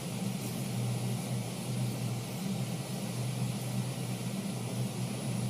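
New York City subway train running steadily between stations, a continuous rumble and rush of wheels and motors heard from inside the car.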